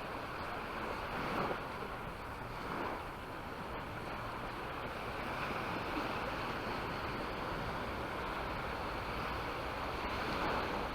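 Sea waves washing onto a beach: a steady hiss that swells briefly a few times, with some wind noise.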